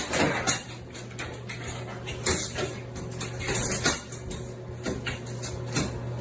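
Irregular light clattering and knocking of small hard objects, several sharp knocks scattered through, over a steady low hum.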